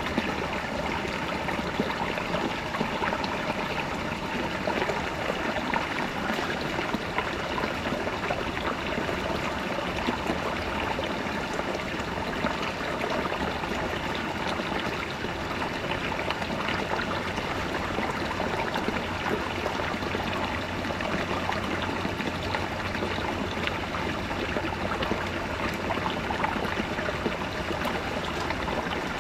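Small brook babbling over rocks: a steady rush of flowing water with fine trickling and gurgling detail.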